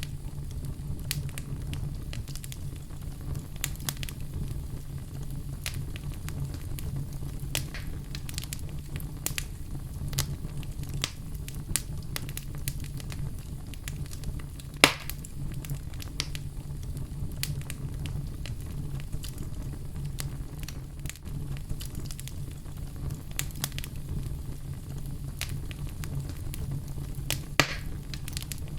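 Fire crackling in a fireplace: a steady low rumble of flames with scattered small crackles and two sharper, louder pops, one about halfway through and one near the end.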